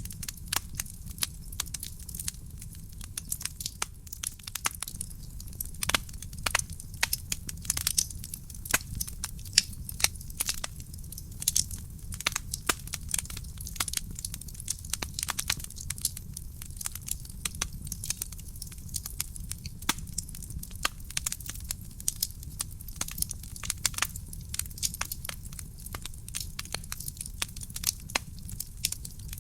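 Wood fire burning in a fireplace, crackling with many irregular sharp pops and snaps of burning logs over a steady low rumble of the flames.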